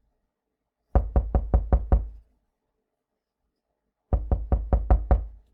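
Knocking on a door with the knuckles: a quick run of about six knocks, then after a pause of about two seconds another run of about six.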